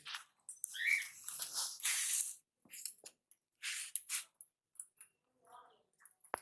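Small pet birds giving short chirps and scratchy squawks in irregular bursts, with gaps of silence between them.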